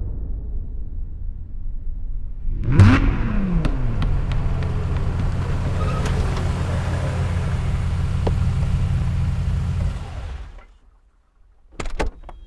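Dodge Challenger SRT8's V8 engine starting about three seconds in, with a brief rev that climbs and falls, then idling steadily until it fades out near the end. Before it starts, the tail of a deep boom dies away, and a few sharp clicks come at the very end.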